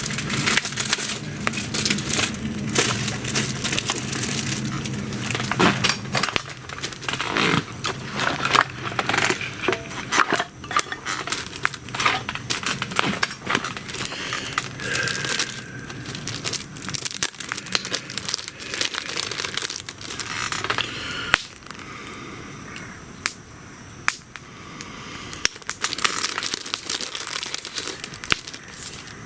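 Wood fire crackling and popping with dense, irregular snaps throughout.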